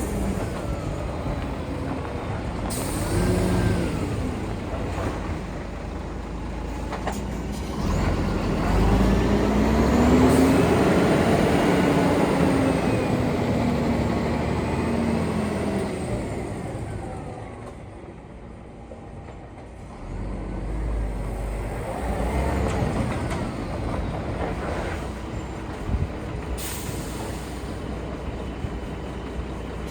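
Scania R480 dump truck's straight-six diesel running, its revs rising and falling several times and loudest in the middle. Short hisses of air brake release come about three seconds in and again near the end.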